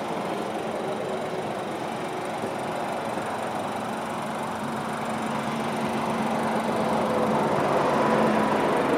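Škoda Superb's petrol TSI engine idling, heard from outside the car, growing slowly louder. It has the light clatter typical of TSI direct injection.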